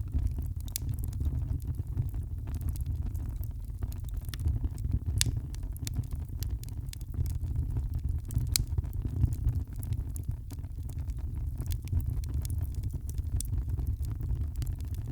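Wood fire crackling, with irregular sharp pops and snaps scattered throughout over a steady low rumble.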